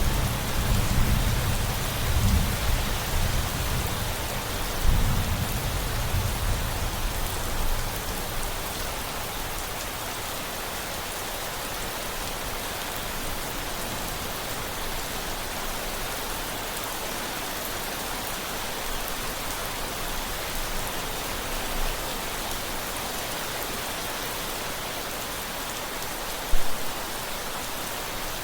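Steady rain falling, with a low rumble of thunder that rolls for the first several seconds and then dies away. A single sharp, brief knock comes near the end.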